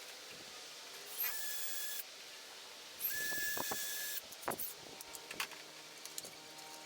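Two short bursts of hissing spray, the first under a second and the second a little over a second, each with a thin steady whistle inside it. Light clicks and knocks of handling metal parts fall between and after them.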